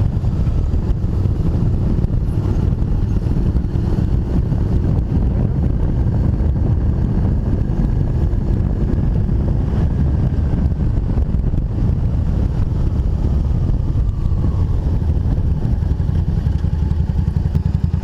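Motorcycle engine running steadily at a low, even pace with no revving.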